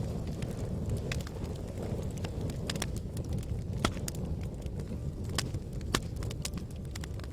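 Wood fire burning in a fireplace: a steady low rumble of flames with irregular sharp crackles and pops, a few louder pops about four, five and a half and six seconds in.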